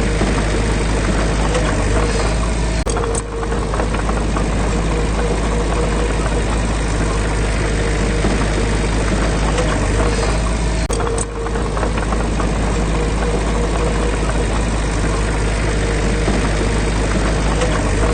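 Heavy diesel engine of earthmoving machinery running steadily, with brief dips and clicks about three and eleven seconds in.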